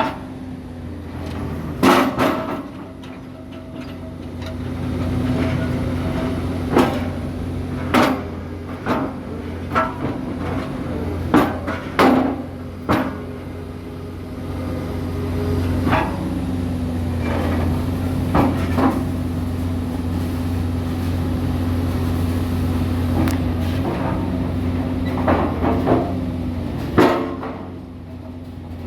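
A heavy construction machine's engine running steadily, with about a dozen loud, irregularly spaced metallic bangs and clanks from the machine at work.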